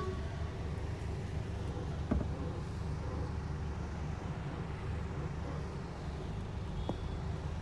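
Steady low rumble of road vehicle engines and traffic, with a short knock about two seconds in and a fainter click near the end.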